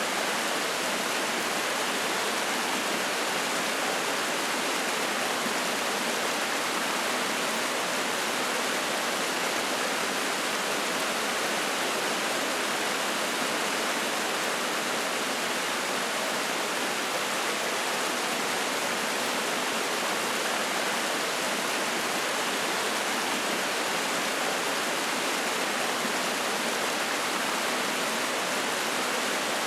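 Spring-fed mountain stream flowing and splashing, a steady even rush of water.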